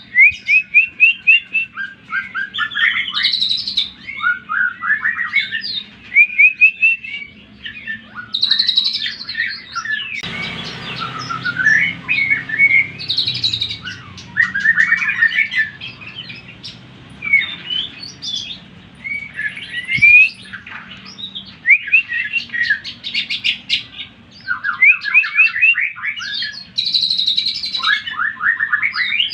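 Greater green leafbird (cucak ijo) singing: loud, fast runs of chirps and whistled sweeps in repeated bursts with short pauses. From about a third of the way in, for several seconds, a low hum lies beneath the song.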